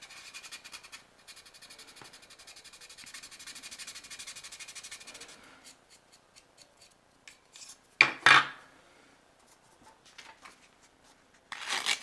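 Sandpaper rubbed quickly back and forth over a plastic model kit part, in fast, even rasping strokes that stop about five and a half seconds in. A brief loud scrape follows about eight seconds in, and another near the end.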